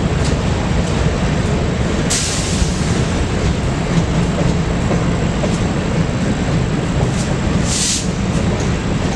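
Freight train rolling past: a steady, loud rumble of railroad cars on the rails with scattered light clicks. Two short hisses, about two seconds in and again near the end.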